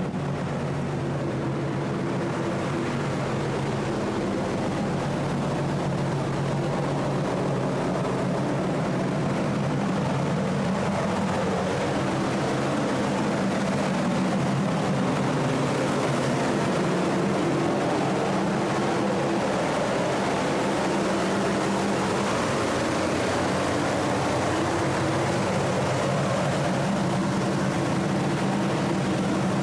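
Ship's engine machinery running with a steady, even hum.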